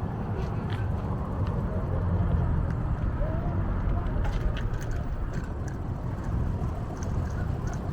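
Steady low rumble of wind on the microphone and rolling noise while riding a bicycle, with a few small clicks and rattles.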